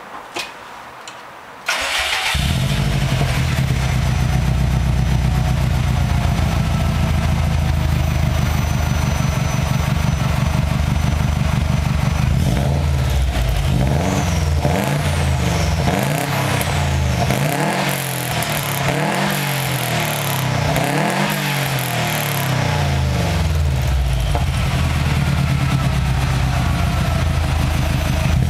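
2.0-litre car engine breathing through a homemade axle-back exhaust that ends in plain pipe instead of a tip, starting about two seconds in after a couple of small clicks. It idles, is blipped up and down repeatedly for about ten seconds, then settles back to idle.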